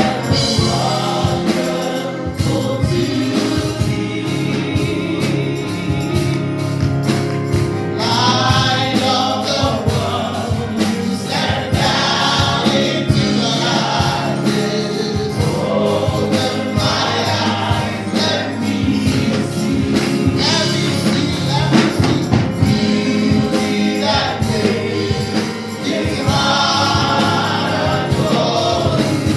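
Gospel music: a group of voices singing with instrumental backing and a steady beat.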